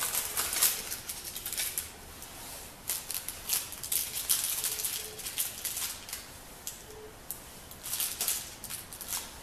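Metal door-latch hardware being handled and fitted, with irregular bursts of small clicks and rattles.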